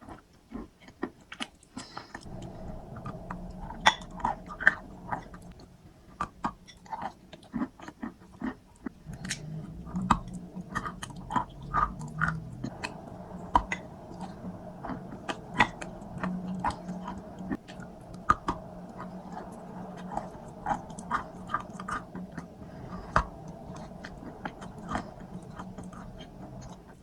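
Close-up chewing of a crunchy strawberry crunch treat, many quick crisp crackles in irregular bursts, over a faint steady hum that comes in about two seconds in.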